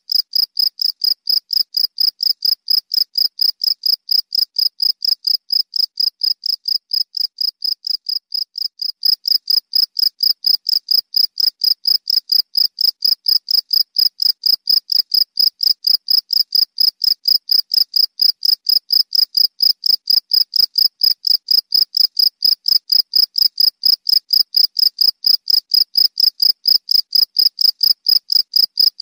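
Cricket chirping: a steady, even train of short high-pitched chirps, about three to four a second, dipping slightly in loudness briefly before picking up again.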